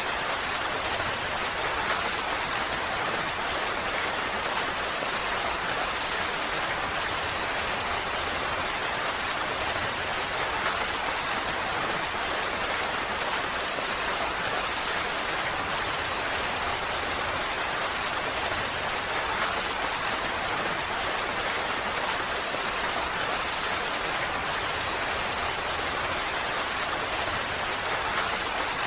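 Steady rain falling, a constant hiss of drops with occasional faint individual drop ticks.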